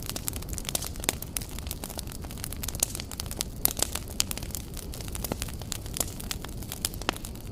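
Wood fire burning: a low steady rumble of flame with irregular sharp crackles and pops of burning logs, several a second.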